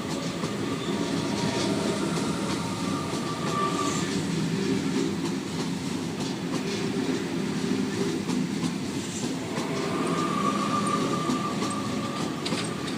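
Waratah electric train pulling out of the platform: a steady rumble of wheels on rail with a high whine that fades about four seconds in and returns near ten seconds, and wheel clicks over rail joints near the end.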